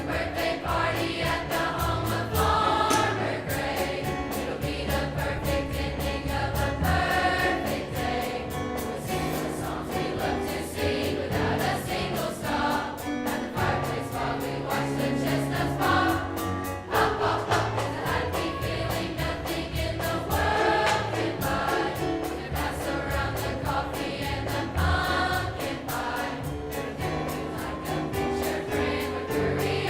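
A choir singing with instrumental accompaniment, sustained low notes under many voices.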